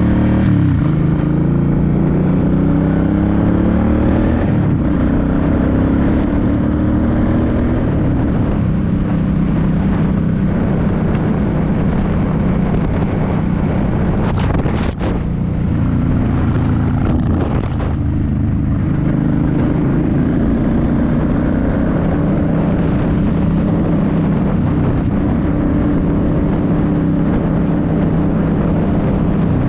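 Suzuki C50's 805 cc V-twin engine running under way on the road. Its pitch rises through the first few seconds as it speeds up, dips briefly around the middle like a gear change or a roll-off of the throttle, then holds steady.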